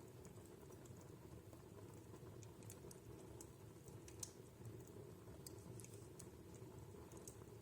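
Wood fire crackling softly in a fireplace: scattered faint sharp pops and ticks over a low steady background, with one louder pop about halfway through.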